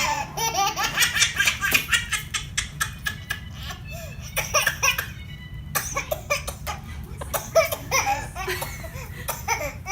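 A baby laughing hard in rapid, repeated bursts of giggles and belly laughs, with a brief pause a little past halfway, over a low steady hum.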